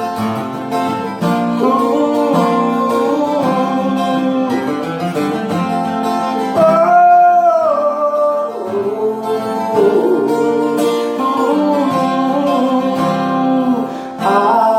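Acoustic guitar playing the intro to a sertanejo song, with a gliding melody line over the chords.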